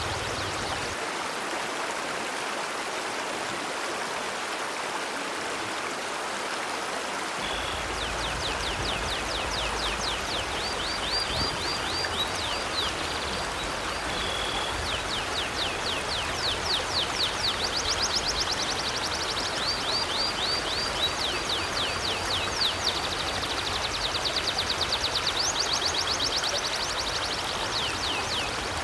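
A river flowing steadily, with a bird's rapid, fast-repeating high chirps over it in long trilled runs from about a quarter of the way in.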